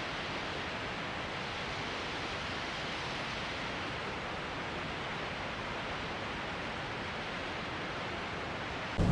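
Steady, even rushing noise of blizzard wind, a hiss with no gusts or rises, cut off sharply near the end by a louder sound.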